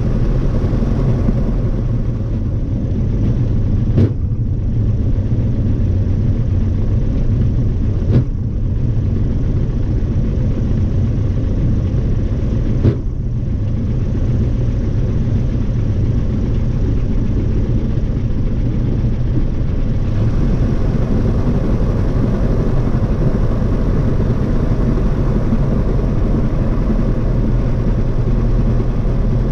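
Light airplane's piston engine running steadily, a low even drone, with three brief sharp clicks along the way.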